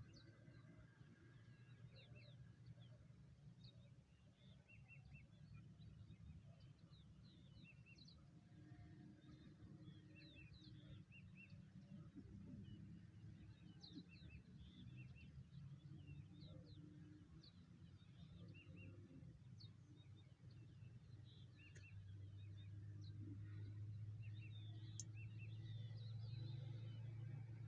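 Faint, scattered short bird chirps over a steady low rumble, which gets louder near the end.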